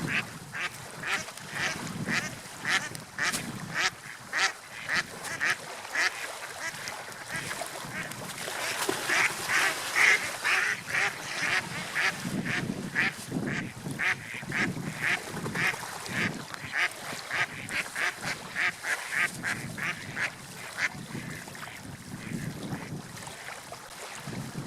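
A bird calling over and over in short calls, about two a second, over a steady wash of water and wind; the calls are loudest around the middle and stop near the end.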